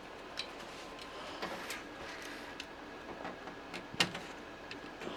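Small scattered clicks and taps of hands handling a plastic 3D-printer hub and its screws, with one sharper click about four seconds in.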